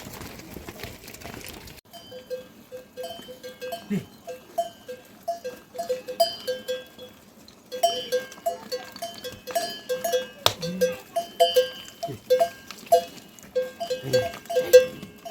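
Livestock bells clanking irregularly as a herd moves, at least two bells of different pitch, with a few short low animal calls among them. A steady hiss fills the first two seconds before the bells start.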